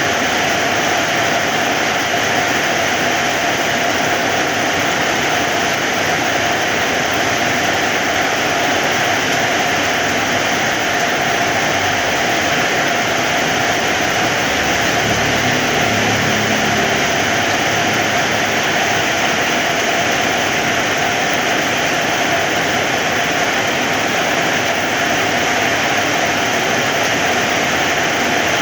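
Heavy rain falling in a steady, dense hiss. A faint low hum comes in for a few seconds around the middle.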